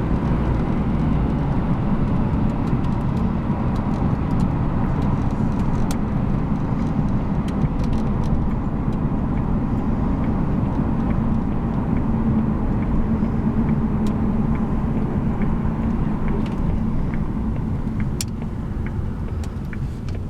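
1997 Jaguar XK8 coupe driving, with its V8 engine and road noise as a steady low rumble; the sound eases off in the last couple of seconds as the car slows.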